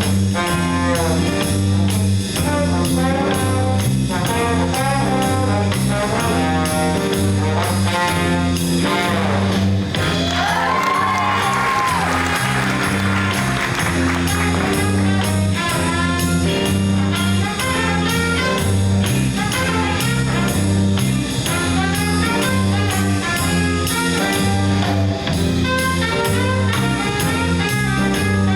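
Big-band jazz ensemble playing: brass section over a steady, repeating bass line and a cymbal beat, with one held note bending in pitch about ten seconds in.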